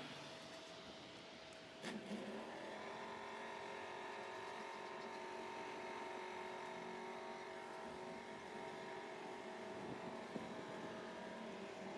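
Faint, steady hum of a vehicle engine running, with a single click about two seconds in.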